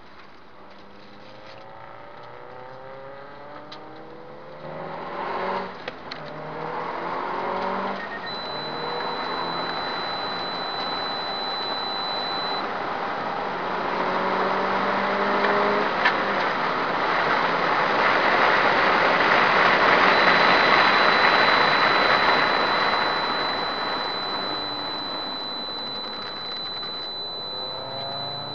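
Subaru Impreza S204's turbocharged flat-four engine accelerating hard, heard from inside the cabin: its pitch climbs, breaks at a gear change about six seconds in, then climbs again. A loud rush of wind and road noise swells to its peak about two-thirds of the way through and then eases.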